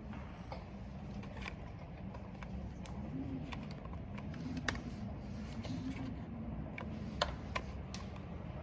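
Computer keyboard keystrokes, irregular and scattered, a few sharper than the rest, over a steady low rumble of wind and rain.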